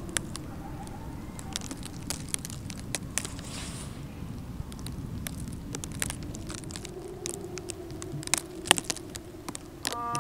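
Muffled rustling of backpacks and clothing, with scattered clicks and crackles over a low steady rumble. Music with long held notes starts near the end.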